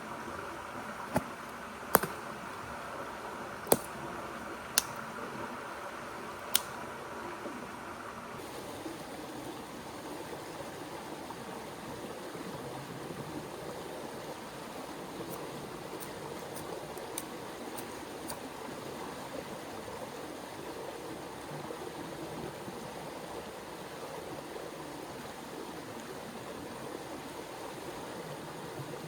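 Steady rushing of a flowing river. In the first few seconds five loud, sharp cracks stand out over a hiss; after about eight seconds the hiss and cracks stop and the river goes on alone, with a few faint clicks.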